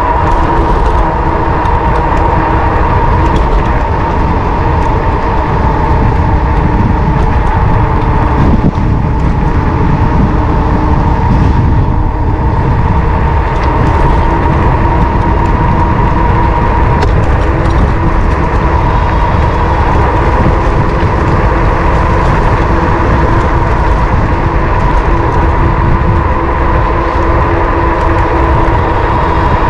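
Wind rushing over an action-camera microphone on a moving electric bike, a dense low rumble with a steady whine held throughout.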